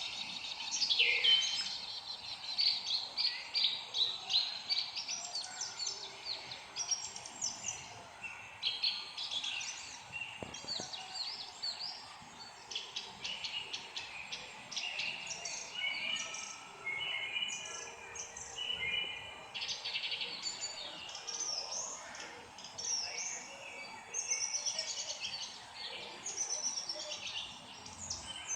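Several songbirds chirping and singing at once, a dense run of short high chirps and trills that comes and goes in bursts, over a faint steady background hiss.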